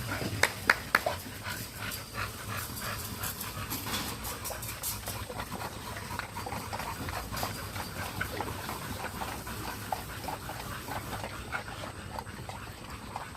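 Young American bully puppies moving about and making small dog sounds amid many short clicks and scuffs, with a few sharper knocks about half a second to a second in.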